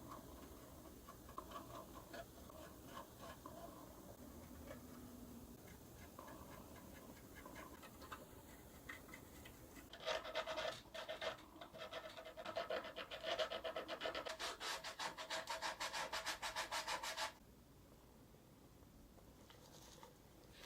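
Hand rubbing on a cello's wooden body, likely sanding work in its restoration. Faint scattered taps and scrapes come first. About halfway in, a fast, steady run of back-and-forth strokes, about six a second, lasts some seven seconds and stops abruptly.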